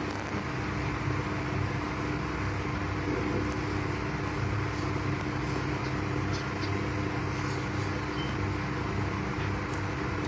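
Steady mechanical hum with a constant mid-low tone over an even noise, and a few faint ticks.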